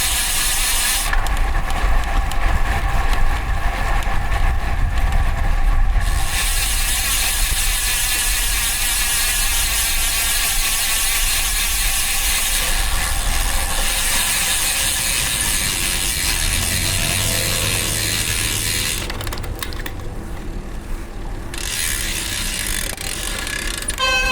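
Road bike's DT Swiss star-ratchet freehub buzzing as a fast, high ratchet whir while coasting, over wind and road noise. The buzz cuts out twice, for about five seconds early on and about two seconds later, when the rider pedals.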